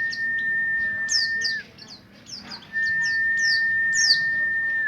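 Buxtoni white-eye (pleci) singing a fast run of high, downward-sweeping chirps, several a second. Under the chirps a long, level whistle is held for about two seconds, drops out briefly about halfway, and comes back until a falling slur at the end.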